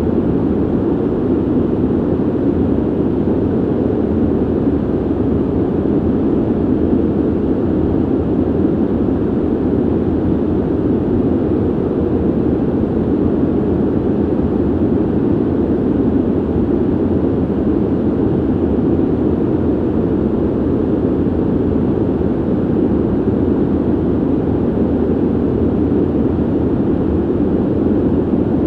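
Steady ventilation noise: air rushing through a ventilation system as an even, low rush with no tone or change.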